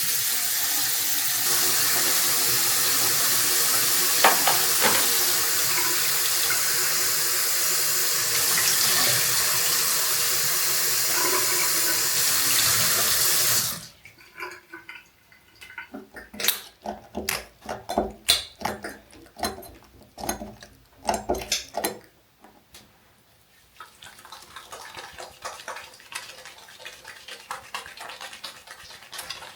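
A water tap runs steadily into a sink for about fourteen seconds, then is turned off abruptly. A string of small clicks and knocks follows, dying away after about eight seconds.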